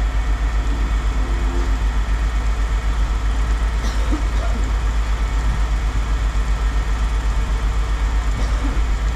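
Engine idling: a steady low rumble that throbs evenly several times a second.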